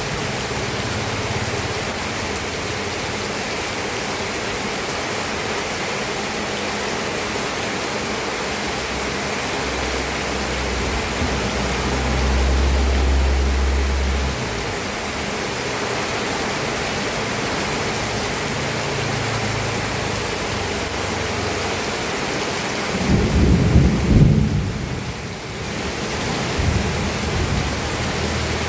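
Steady rain falling, with a low rumble of thunder around the middle. A louder roll of thunder follows about four-fifths of the way through and trails off into further rumbling.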